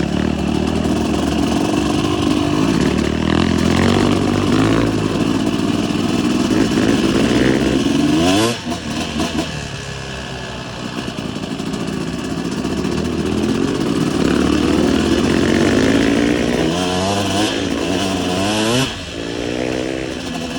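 Motocross bike engine under way, rising and falling in pitch with the throttle. The sound drops off suddenly about eight seconds in and again near the end, as the throttle is rolled off, then builds again.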